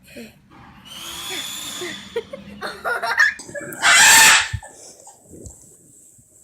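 A bird calling, with a high call about a second in and a loud, harsh screech about four seconds in.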